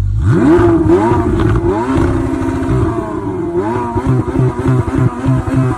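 Ferrari 488 Pista's twin-turbo V8 being revved in the stationary car: several sharp rev blips, with a fast stuttering pulse of the revs near the end.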